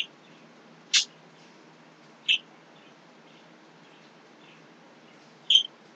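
A small bird chirping: four short high chirps at uneven spacing, with fainter chirps between.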